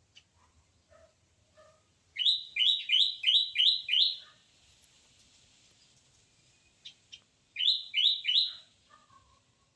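A squirrel chirping: a quick run of six sharp, rising chirps about two seconds in, then three more near the end.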